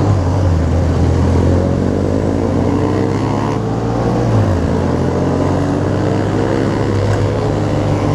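Many motorcycle engines running together in a large group ride, several rising in pitch as they accelerate, over a steady low engine drone that dips briefly about four and a half seconds in.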